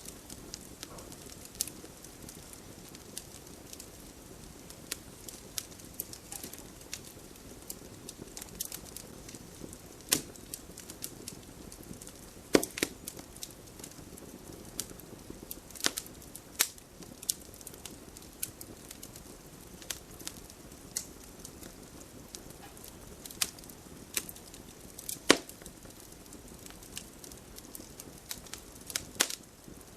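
Campfire crackling: burning wood snapping and popping at irregular moments, a handful of the pops much louder, over a steady low noise.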